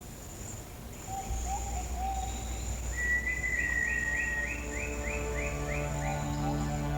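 Tropical rain forest ambience: a steady high insect drone with a bird warbling lower down, then about three seconds in a bird's long whistle followed by a quick run of rising notes, about four a second. Low held music tones fade in during the second half.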